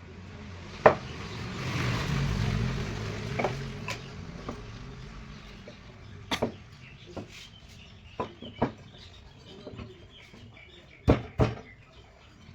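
Sharp, irregular knocks and clatter of wooden parts being handled and struck. A louder rushing noise lasts about two seconds, starting a second in.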